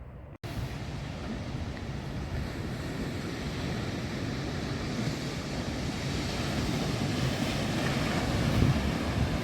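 Ocean surf washing on the beach with wind buffeting the microphone, starting abruptly about half a second in and slowly growing louder, with stronger low gusts near the end.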